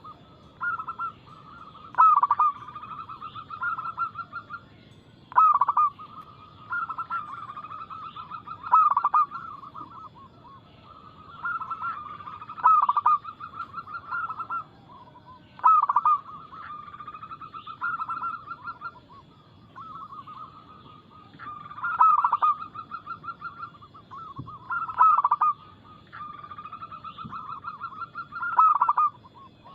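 Zebra doves (perkutut) cooing: phrase after phrase, every two to three seconds, each opening with a loud note and running on in a fast stuttering string of notes.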